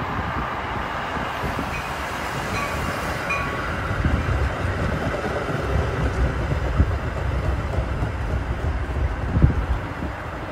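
Metra bilevel commuter train rolling past close by: a steady rumble of steel wheels on the rails, with a few sharper wheel knocks later on.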